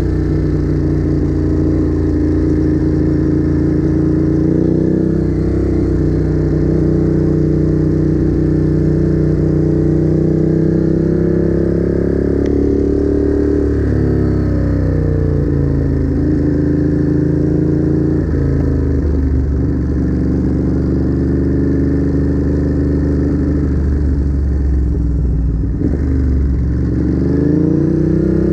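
Ducati Monster's L-twin engine running under way, the engine note rising and falling several times as the motorcycle accelerates and eases off through the gears.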